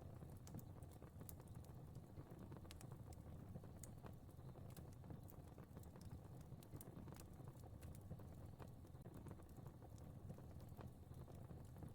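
Fire crackling: scattered, irregular small pops and snaps over a steady low rumble of flame, played quietly.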